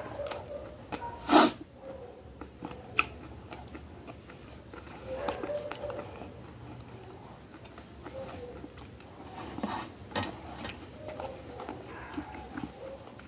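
Close-up chewing of breaded chicken milanesa: wet mouth sounds with a few sharp clicks from biting, the loudest about a second and a half in.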